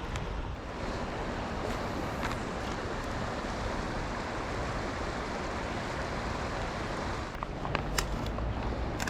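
Steady rushing of creek water in a strong current, mixed with wind noise on the microphone. A few faint clicks come near the end.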